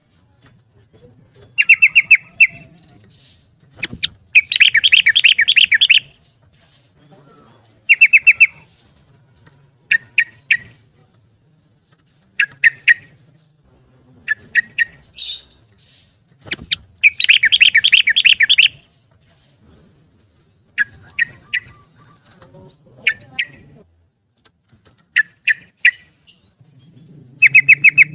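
Yellow-vented bulbul (trucukan) singing in repeated bursts of quick, bubbling chirp notes. Twice it gives a longer rapid run of about two seconds.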